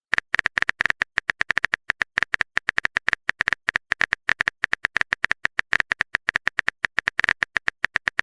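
A rapid, irregular run of short sharp clicks, about eight to ten a second: a phone keyboard typing sound effect.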